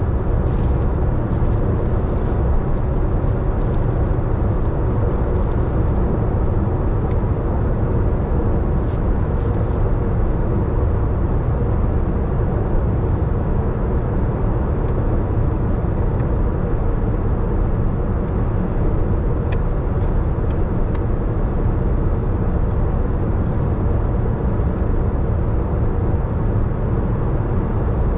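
A car driving on a wet road: a steady rumble of engine and tyres, with a few faint ticks.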